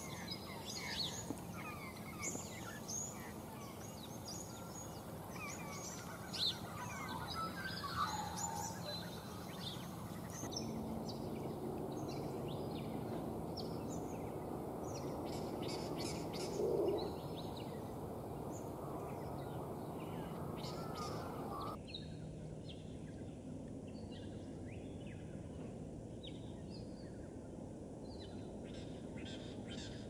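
Wild birds giving many short, high chirps and twitters over a steady low outdoor background hum. The background changes abruptly twice where the field recording cuts.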